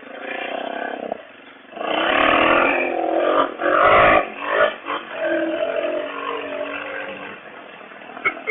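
Suzuki DR650 single-cylinder four-stroke engine revving up and down while the bike is ridden over rough dirt, with a louder, jolting stretch of noise from about two to four seconds in.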